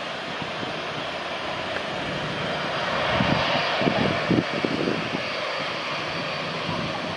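Jet airliner engines heard at an airport: a steady rushing noise, with a few low gusty puffs in the middle.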